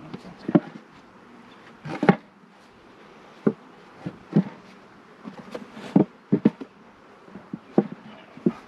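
Irregular wooden knocks and clunks as hive boards and boxes are set down and shifted into place, with bees buzzing faintly underneath.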